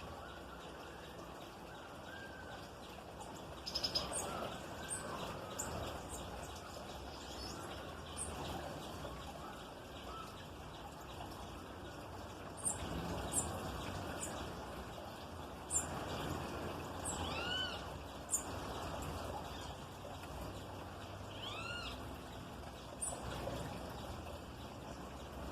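Small songbirds calling faintly: scattered short, high chirps, with two longer arching calls, about two-thirds of the way through and again a few seconds later.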